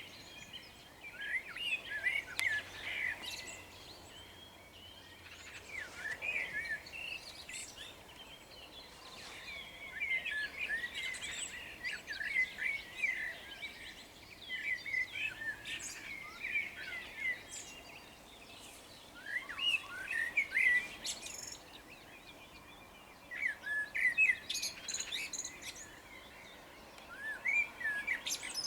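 Dawn birdsong in a meadow: a songbird sings short chirpy phrases of quick, gliding notes, one phrase every four to five seconds, with fainter calls of other birds between them.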